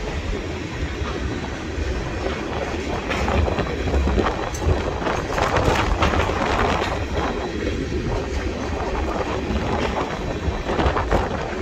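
Freight train of covered hopper cars rolling past, its steel wheels rumbling and clacking over the rails, with wind buffeting the microphone.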